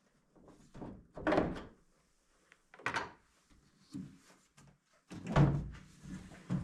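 Several separate clunks and knocks as a car hood and its hardware are worked loose and handled. The loudest comes about a second in and another near the end.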